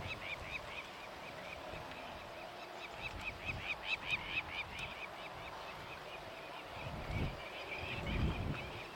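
Birds calling in a fast run of short, repeated notes, loudest in the middle. Wind gusts rumble on the microphone near the end.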